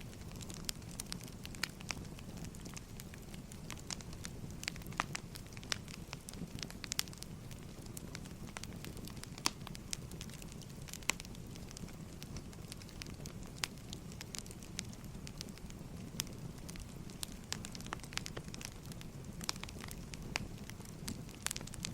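Firewood burning: irregular sharp crackles and pops over a steady low rumble of the fire.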